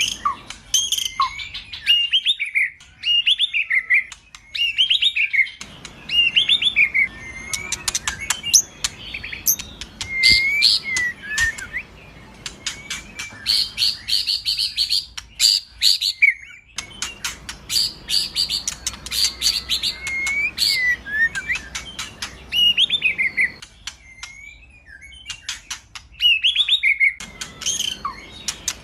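White-rumped shama (murai batu) singing a long, varied song: rich whistled phrases that swoop up and down, broken by fast runs of sharp clicking and rattling notes, in repeated bursts.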